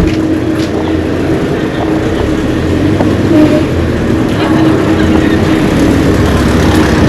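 A motor vehicle's engine running with a steady humming drone over a low rumble and loud background noise.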